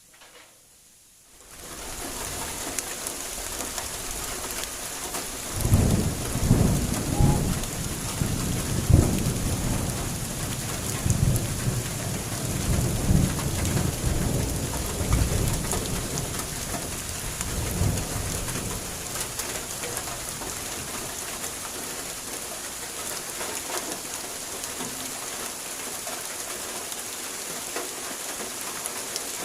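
Heavy tropical rainstorm: steady rain hissing, with rolls of rumbling thunder through the first half, then rain alone.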